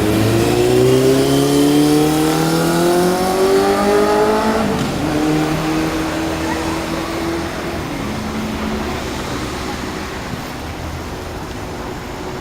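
A motor vehicle's engine accelerating, its pitch rising for several seconds, dropping abruptly at a gear change, then holding steady and fading.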